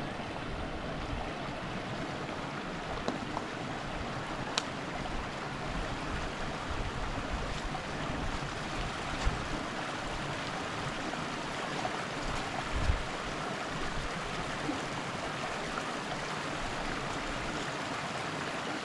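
Steady rushing of creek water flowing over rocks, with one sharp click about four and a half seconds in.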